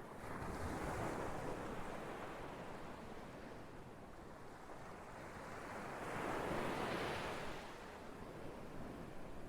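Ocean waves washing in and drawing back, a steady rush of surf that swells twice: briefly near the start and more strongly about two-thirds of the way through.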